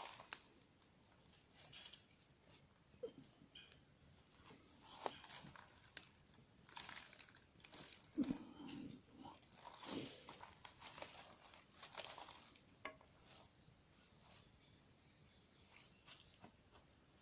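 Wood fire crackling: scattered sharp pops and snaps over faint rustling hiss, busiest in the middle.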